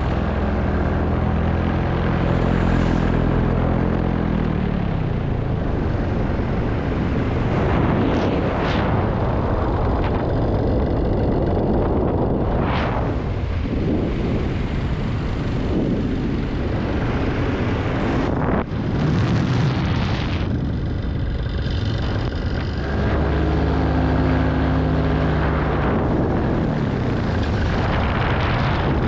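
Paramotor engine and propeller running in flight under heavy wind rush on the microphone. The engine's steady tone is clear at first and fades out after a few seconds, leaving mostly wind noise with a few brief whooshes, then comes back strongly near the end.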